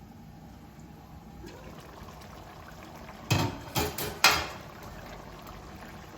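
Chicken curry gravy simmering in a pan over a high flame, a faint steady bubbling. A little past halfway, three sharp metallic clanks come in quick succession, louder than the simmer.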